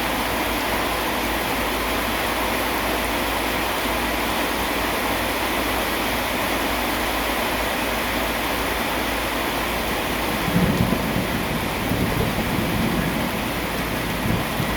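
Steady rain hiss with low thunder rumbling in twice, about ten seconds in and again a couple of seconds later.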